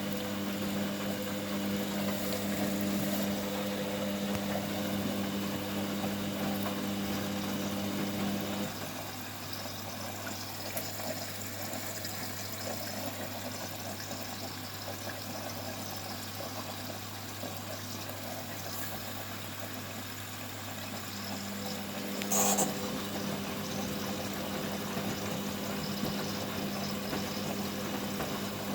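Hoover Baby washing machine on its final rinse: a steady electric motor hum over water sloshing. The hum cuts out about a third of the way in, leaving the water, comes back near the end, and there is a sharp click just after it returns.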